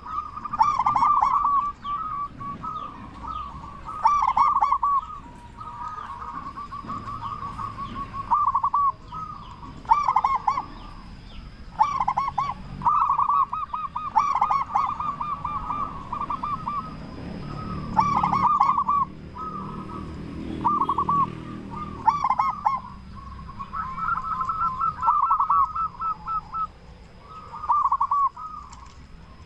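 Local-type zebra dove (perkutut) cooing, with clusters of quick rolling notes repeated every second or two in a series of phrases.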